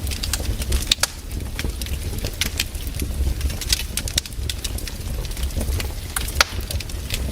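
Campfire burning, the wood crackling and popping in irregular sharp snaps over a steady low rumble.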